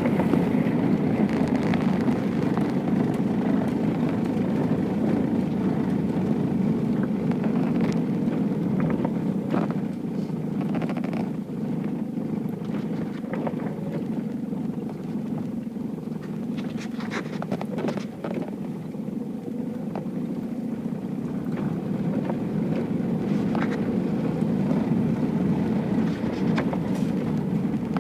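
Steady low rumble of a car's engine and tyres heard from inside the cabin, with a few scattered faint clicks.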